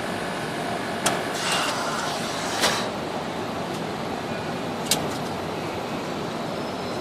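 Steady background hum and hiss with three sharp clicks, about a second in, near three seconds and near five seconds, and a brief rustle after the first click.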